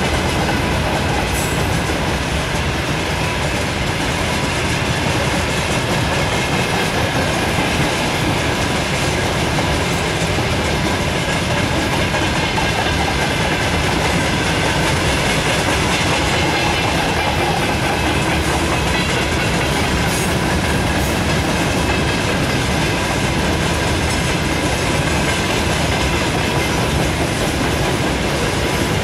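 Freight train wagons (gondolas, covered hoppers and tank cars) rolling past, their steel wheels on the rails making a loud, steady, unbroken noise.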